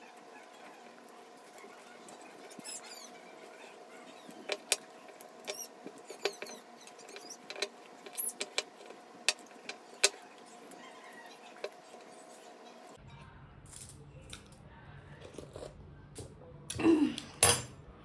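Close-miked eating sounds of smoked pork being chewed and gnawed off the bone: a string of sharp wet smacks and clicks, several a second at times, then a short louder sound near the end.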